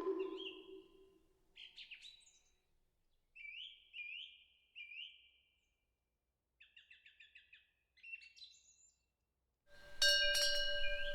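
A moktak (hollow wooden temple block) is struck once and its hollow tone fades. Then small birds chirp in short repeated phrases. Near the end, a temple eave wind bell (pungyeong) starts ringing with several steady tones.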